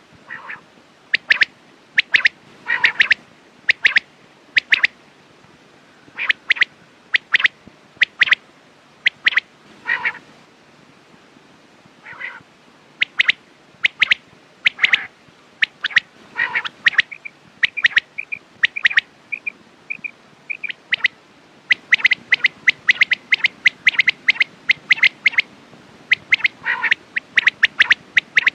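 Quails calling: short, sharp notes come in quick irregular bursts throughout, with a run of brief, clearer whistled notes about two-thirds of the way through.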